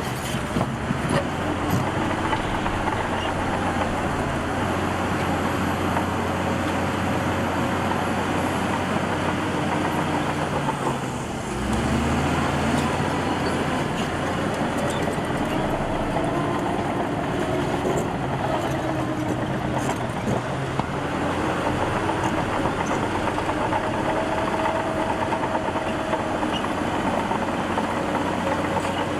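Heavy diesel engine of earthmoving machinery running steadily, its note changing and growing a little louder about eleven seconds in.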